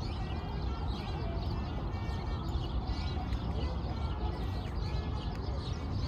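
Small birds chirping in many short, overlapping calls over a steady low city hum.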